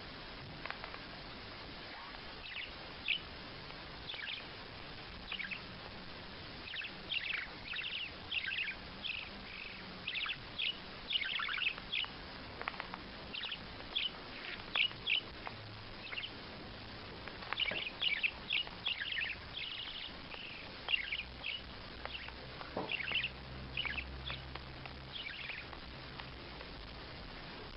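A bird calling over and over with short, high, downward-sweeping squawks, coming in quick runs and busiest in the middle, over a steady hiss.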